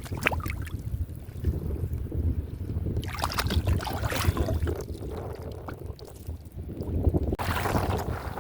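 Wind rumbling on the microphone, with two spells of rougher hissing noise, the first about three seconds in and the second near the end.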